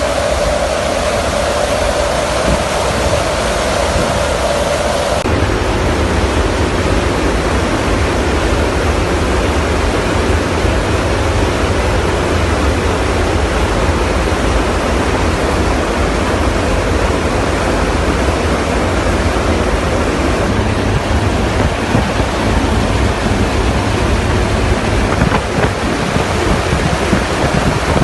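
Loud, steady aeroplane engine roar with a deep rumble. A whine runs over it for the first five seconds and stops abruptly.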